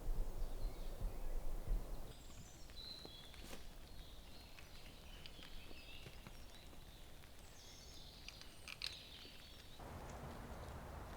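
Small birds chirping and twittering faintly, with a few light clicks. A steady rushing noise with a low rumble fills the first two seconds, stops abruptly, and returns near the end.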